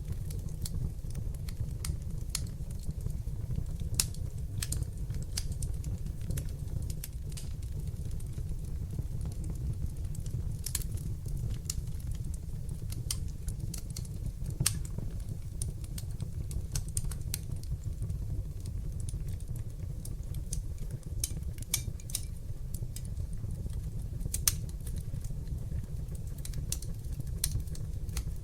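Wood fire burning in a fireplace: a steady low rumble of flames under irregular sharp crackles and pops, several a second, with a few louder pops.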